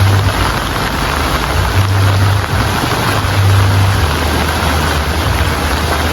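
Steady rain falling, an even hiss, with a low rumble underneath that swells and eases several times.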